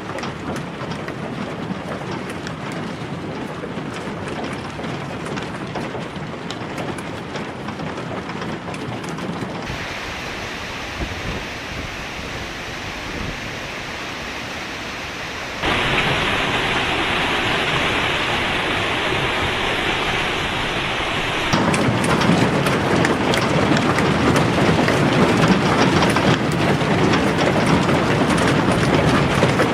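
Steady rushing noise of water, like heavy rain or a flood torrent, with no voices; its loudness and tone change abruptly three times, about ten, sixteen and twenty-two seconds in, getting louder after each of the last two changes.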